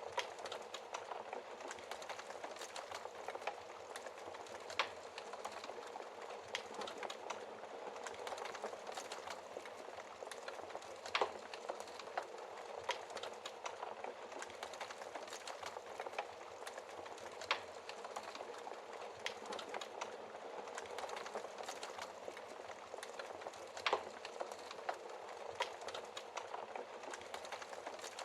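Wood fire burning in a fireplace: a steady hiss and crackle with scattered sharp pops, the loudest three standing out about eleven, seventeen and twenty-four seconds in.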